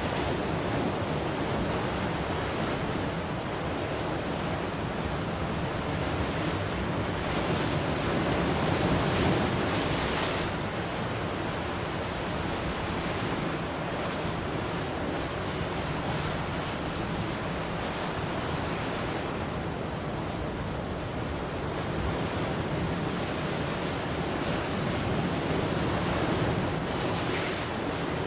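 Ocean surf: a continuous wash of waves breaking and running up the shore, with a bigger wave surging louder about a third of the way in and another near the end.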